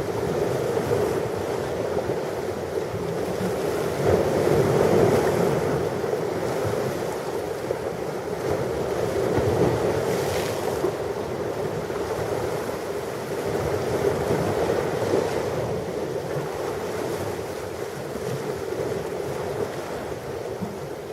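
Ocean waves washing onto a shore, a continuous surf that swells and eases every few seconds, with some wind rumble on the microphone.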